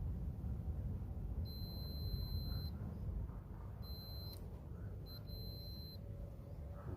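A multimeter's continuity beeper sounds three times as the probes make contact on the rotary compressor's terminals: a beep of about a second, a short one, then another of about a second. The tone shows continuity through the compressor's windings.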